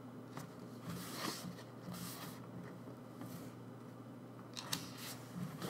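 Soft rustling of paper as photobook pages are handled and turned, a few times.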